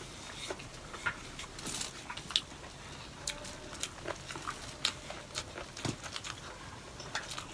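Close-up eating sounds: chewing and mouth noises with scattered, irregular sharp clicks and taps.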